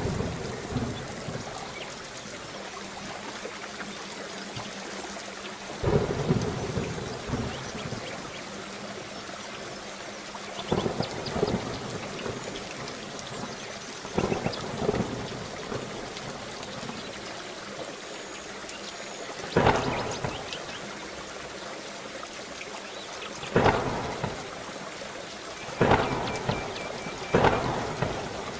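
Heavy rain falling steadily, with sharp thunder cracks breaking in about seven times, each loud and fading off in a short rumble; several come close together near the end.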